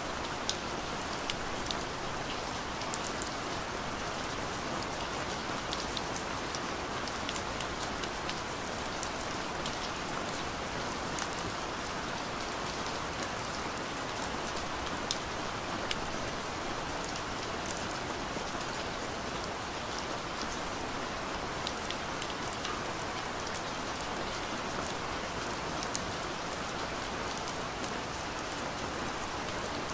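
Steady rain falling, with single drops ticking sharply on a hard surface every so often.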